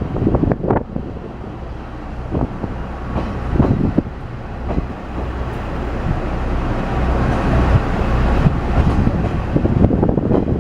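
KiHa 40 series diesel railcar running at low speed, heard from inside the car: a steady diesel engine drone with occasional clacks of the wheels over rail joints and points, the rumble growing louder partway through.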